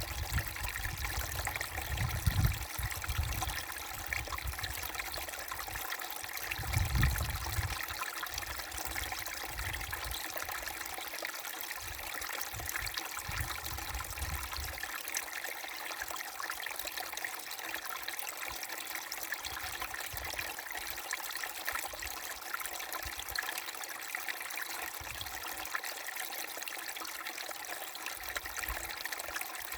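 Small brook babbling steadily over stones, a continuous trickling and splashing. A few low rumbles come through in the first several seconds, the strongest about seven seconds in.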